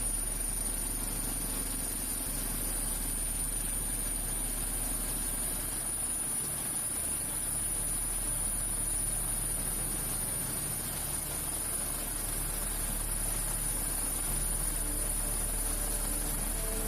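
Coast Guard helicopter in flight: steady engine and rotor noise with a constant high-pitched whine over it.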